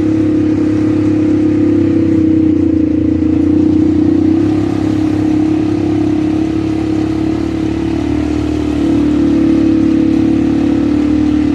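ATV engine running steadily while riding, its note holding nearly level with a slight easing off about two-thirds of the way through.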